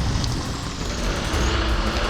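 Modified off-road 4x4 running with its engine under load, with background music.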